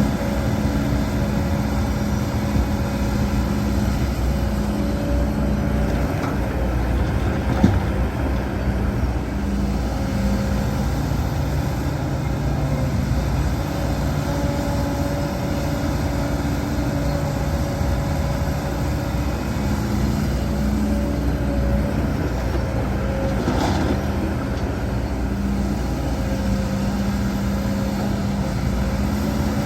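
Heavy diesel earthmoving machinery running steadily under load, its engine note shifting up and down in stretches as it works. A single sharp knock sounds a little over seven seconds in.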